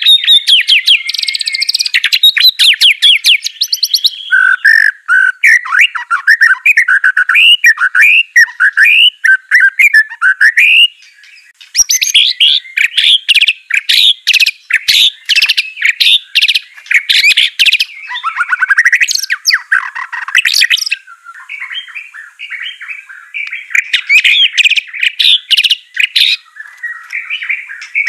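White-rumped shama (murai batu) singing loudly and without pause. Its song is a fast, ever-changing run of gliding whistles, rapid chattering trills and ticking notes, with a new phrase every second or two.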